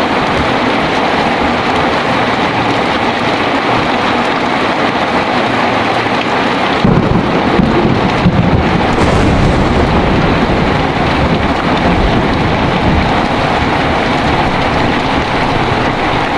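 Heavy rain pouring steadily. About seven seconds in, thunder breaks in with a low rumble, a sharp crack a second or so later, and the rumble rolling on and slowly fading.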